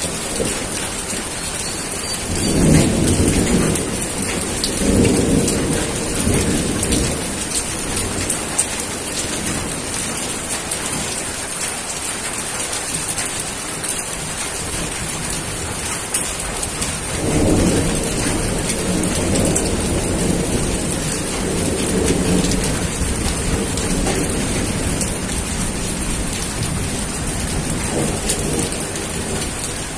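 Steady heavy rain falling on surfaces, with thunder rolling in low twice: once about three seconds in and again past the middle.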